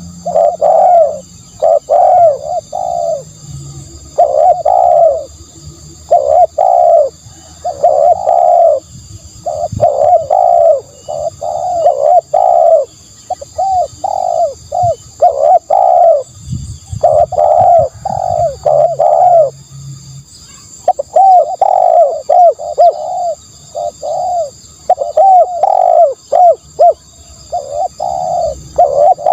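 Spotted dove cooing over and over, in phrases of three to five quick coos with short pauses between them.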